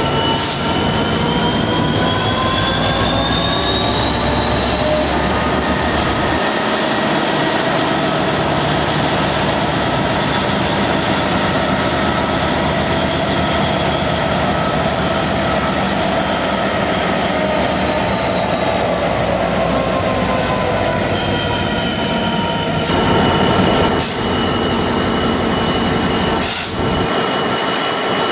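A train running, with a whining tone that rises in pitch over the first few seconds, holds steady, then falls away about 17 to 21 seconds in. Three sharp clacks come near the end.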